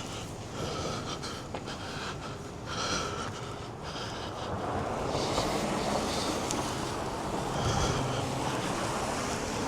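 Outdoor street noise in a snowstorm: a steady rush of traffic and wind, growing louder about halfway through.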